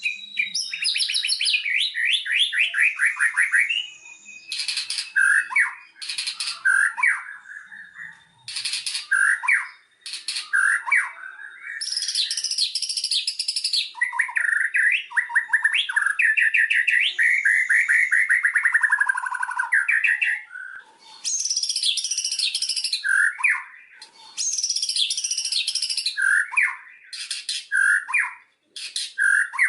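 White-rumped shama (murai batu) singing a long, varied song with hardly a pause: fast trilled runs, sliding whistled phrases and short harsh chattering bursts.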